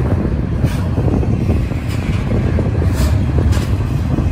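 BNSF double-stack intermodal train's well cars rolling past at a restricted 15 mph. Their wheels make a steady low rumble on the rail, with a few sharp clicks now and then, over freshly repaired low spots in the track.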